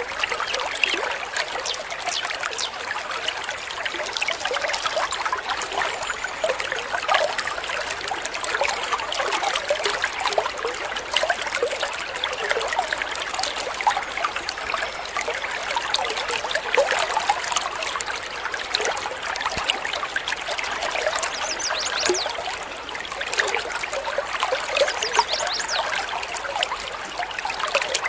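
Water trickling and babbling steadily over stones, a continuous splashy burble with no pause.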